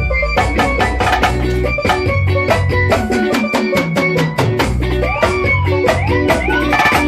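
A band playing an instrumental passage: quick, steady drum and percussion strokes over bass and guitar. Sliding notes bend up and down in the second half.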